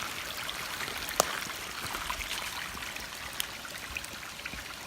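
Steady light rain pattering, many scattered small drops ticking, with one sharper tick about a second in.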